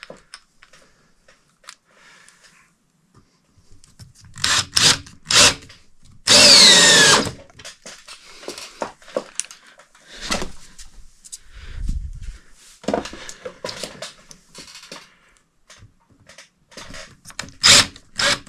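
Power drill driving screws in short runs: a few quick trigger pulls, then a longer run about six seconds in and another near the end, each whine falling in pitch as the motor slows. Knocks and clicks of handling come between the runs.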